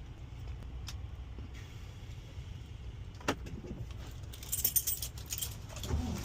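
Keys jangling for about a second, a little past halfway, after a couple of sharp clicks, over a low steady rumble.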